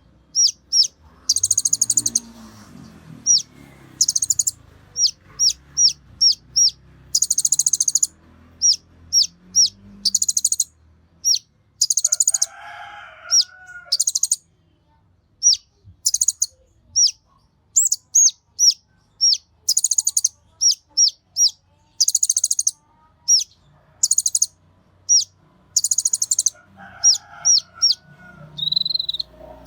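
Kolibri ninja (konin) singing hard: a rapid string of short, high, down-slurred whistles alternating with harsh buzzy trills. A lower call is heard twice in the background, near the middle and near the end.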